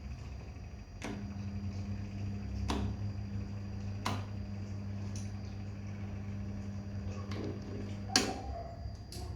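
Electric dryer running with a low steady hum; a higher hum switches in with a click about a second in and cuts off with a sharp click about eight seconds in, with a few other clicks between.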